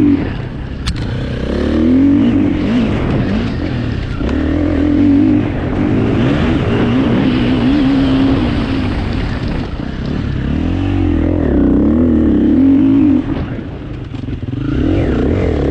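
KTM 350 four-stroke single-cylinder enduro motorcycle ridden hard, its engine revving up and dropping back repeatedly through gear changes and corners, easing off briefly near the end before pulling again.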